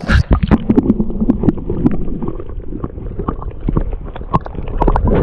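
Water sloshing and splashing close to the microphone, with many irregular knocks and bumps, as a trout is let go into the water beside a kayak.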